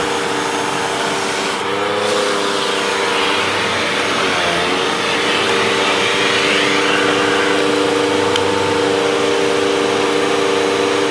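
Hoover vacuum cleaner motor running steadily during a hose suction test, its pitch dipping briefly twice as the load on the hose changes.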